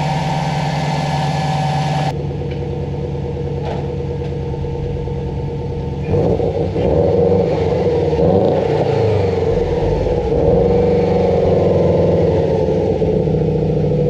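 2004 Subaru WRX's turbocharged flat-four engine running smoothly. It idles steadily, then from about six seconds in it is louder and revs rise and fall. There is no rod-knock-like knocking, now that the loose timing belt tensioner has been replaced.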